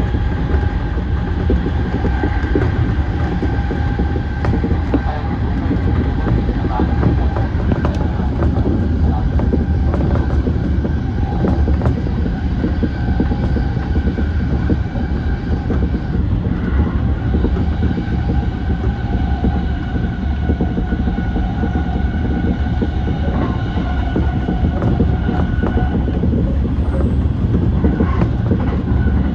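Yokosuka Line E235 series electric train running along the line, with a steady rumble of wheels on rail and a steady whine above it.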